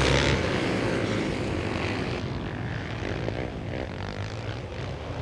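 Engines of a pack of racing quads on a dirt flat track, running hard together and fading steadily as the pack moves away.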